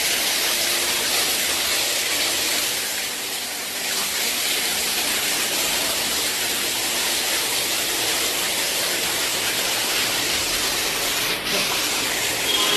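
Floodwater rushing past: a steady, loud hiss with no pauses.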